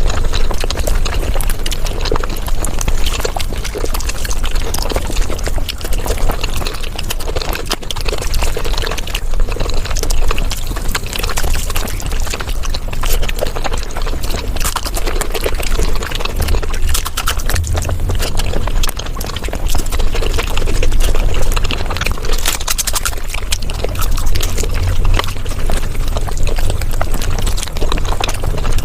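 Mukbang eating sounds sped up five times: chewing and wet mouth smacks of someone eating palak paneer, running together into a dense, rapid chatter of clicks.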